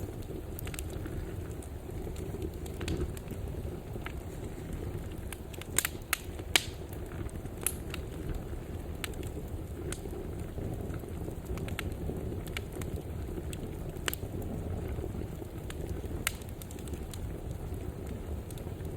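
Wood fire burning, a steady low rumble with scattered sharp crackles and pops, two of them loudest about six seconds in.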